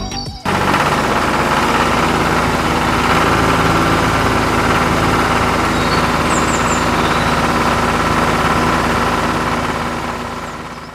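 An engine idling steadily, with an even low throb, fading out near the end.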